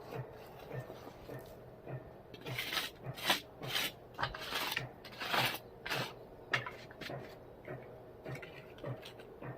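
Irregular scraping and rasping strokes from digging a small tunnel through the rocks and dirt in the bottom of a barbecue, over a faint low thump that repeats about twice a second.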